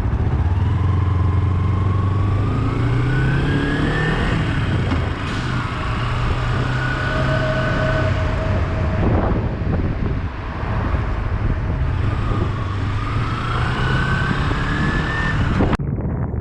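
Motorcycle engine accelerating, its pitch rising over the first few seconds and again near the end, over steady wind and road noise. The sound changes abruptly just before the end.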